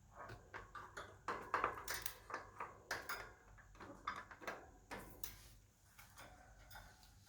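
Budgerigars chirping and chattering: a rapid string of short calls, busiest in the first five seconds and thinning out towards the end.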